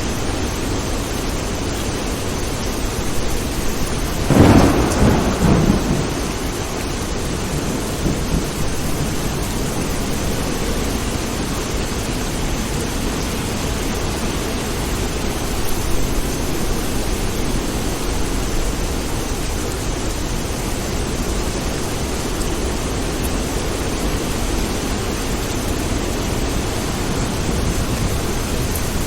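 Steady heavy rain, with a sharp clap of thunder about four seconds in that rumbles for a couple of seconds before dying back into the rain.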